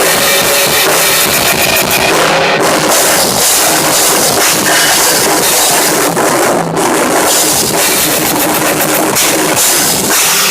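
Rock drum kit played loud and fast, with a dense wash of cymbals over kick drum and snare, recorded on a tablet's built-in microphone. The playing stops at the very end.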